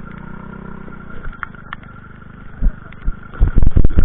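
A motorcycle engine idling steadily, fading after about a second and a half, followed near the end by a run of loud low thumps.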